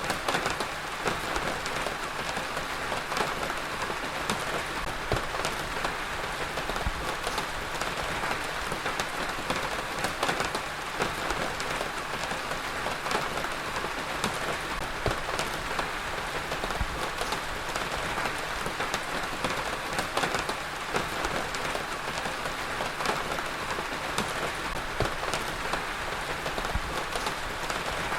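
Heavy rain falling steadily on a surface, with a dense scatter of individual drops ticking through the hiss.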